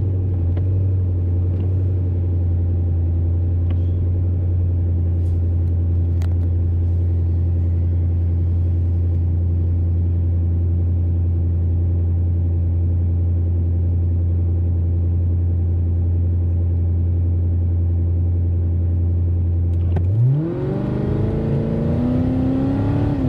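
Car engine idling with a steady low hum, heard from inside the cabin. About twenty seconds in it revs up as the car pulls away, its note rising and then levelling off.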